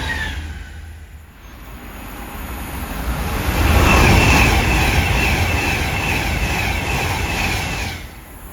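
A train passing through the station. Its noise builds from about a second in to its loudest around four seconds, with a high steady whine over the rumble, then drops off suddenly near the end.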